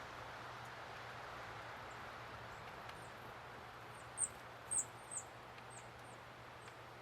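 A small songbird giving a string of short, very high, thin call notes, each hooking downward in pitch; the notes come loosely spaced, with the loudest few about four to five seconds in.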